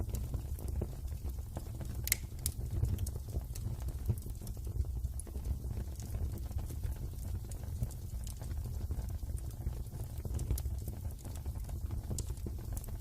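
Wood fire crackling, with irregular sharp pops and snaps over a steady low rumble; the sharpest pop comes about two seconds in, another near the end.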